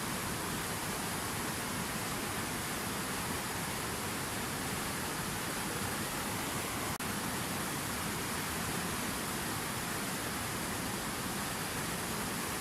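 Water from a fountain waterfall splashing in a steady, even rush, with a tiny click about seven seconds in.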